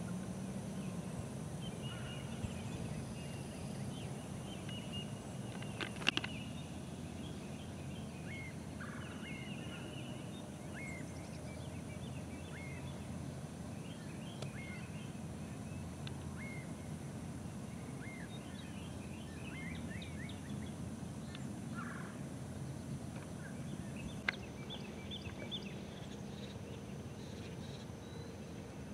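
Birds chirping repeatedly over steady low outdoor background noise, with two sharp clicks of a golf club striking a ball, about six seconds in and again near the end.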